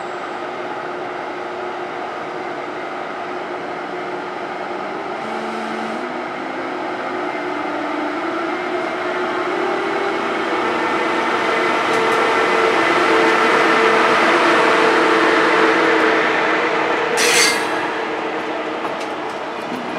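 Deutsche Bahn ICE high-speed train, led by its electric power car, moving past the platform. A steady electric whine steps up in pitch as it gathers speed, and the train grows louder as it passes, with a brief sharp hiss near the end.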